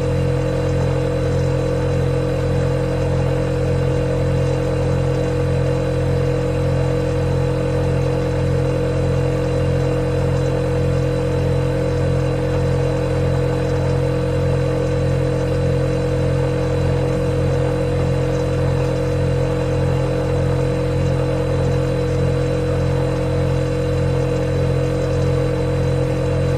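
Refrigerator running with a steady, unchanging hum made of several low tones.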